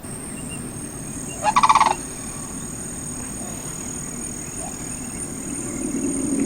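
Low rumbling of the 'strange sounds' heard over Central Florida after a thunderstorm, swelling toward the end. A brief warbling animal call comes about one and a half seconds in, and two thin, steady high tones run above.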